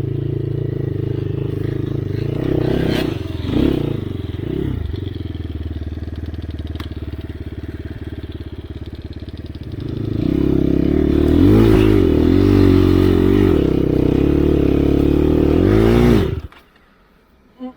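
Enduro dirt bike engine running under load, revving up and down repeatedly in the second half as the rear tyre spins without grip on snow, then cutting out suddenly near the end.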